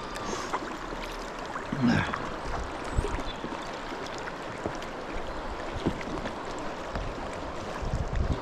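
River current rushing steadily, with occasional small knocks and splashes.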